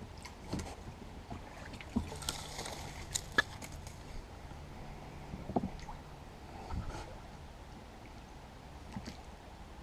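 Small sculling dinghy under way with a single oar: scattered, irregular knocks and creaks from the oar and hull, about six in all, with a brief hissing scrape a couple of seconds in, over faint water noise.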